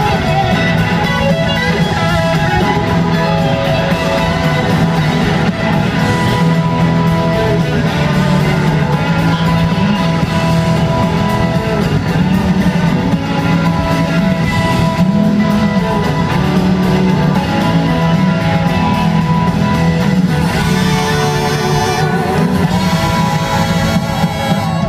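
Live blues-rock band playing, with electric guitar out in front of the band.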